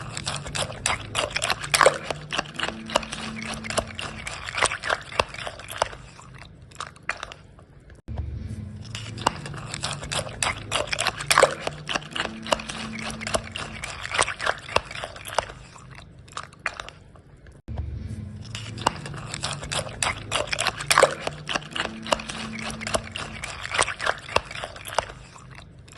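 A spoon stirring cereal in milk in a bowl: dense crunchy clicking and scraping with a wet edge. Each bout thins out, then starts up again abruptly about every nine and a half seconds.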